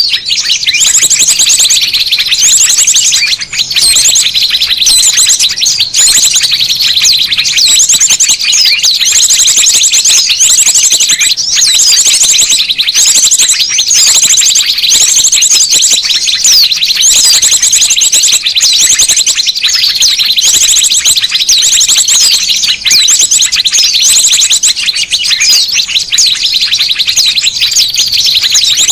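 A dense chorus of many small songbirds chirping and twittering continuously, with repeated fast high trills every second or two. This is a bird-lure (pikat) recording of noisy small birds, used to call small wild birds in.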